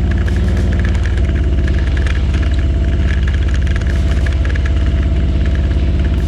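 Harley-Davidson V-twin motorcycle engine running steadily while riding, heard from a camera mounted on the bike, with many light rapid clicks from the loosely fitted camera mount.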